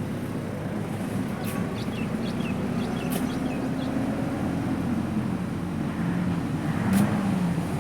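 Tractor engine running steadily, its hum wavering a little in pitch. A few short high chirps come a couple of seconds in, and there is a brief louder knock near the end.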